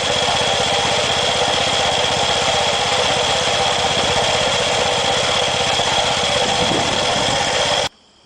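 Mini combine's gasoline engine running steadily, with a rapid even pulsing and a steady high whine over it; the sound cuts off abruptly near the end.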